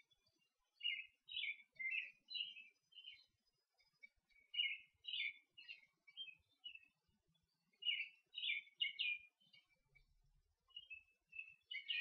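Songbirds singing: phrases of high chirps and short trills, each a second or two long, with short pauses between them.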